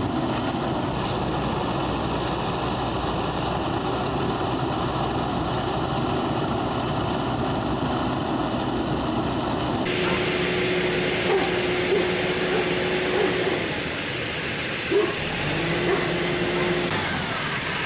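A motor vehicle engine running steadily. About ten seconds in, the sound cuts to a different recording: engine noise with a held tone and a few short sharp sounds.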